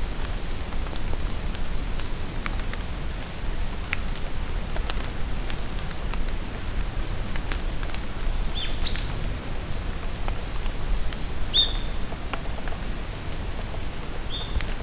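Steady rain falling in a forest, drops pattering and ticking, while small songbirds call: a quick rising chirp about nine seconds in, a rapid trill just after, and a few more short chirps near the end.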